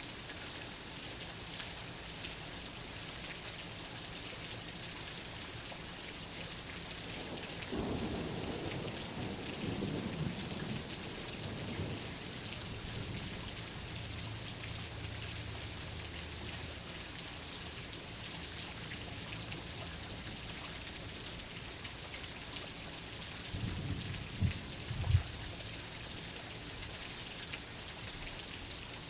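Steady rain hissing throughout, with a roll of thunder rumbling about eight seconds in and fading over a few seconds. Near the end a closer thunderclap gives two sharp cracks, the loudest moment.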